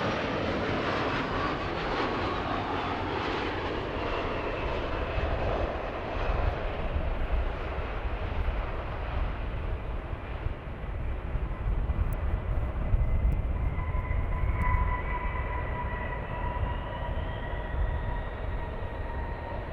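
Jet airliner engines as the aircraft passes: a steady roar with whining tones that slide slowly in pitch, the deep rumble heaviest a little past the middle.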